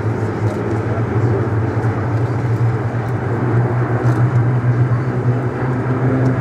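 Steady low drone of a piston aircraft engine running at an even pitch, with no rise or fall in level.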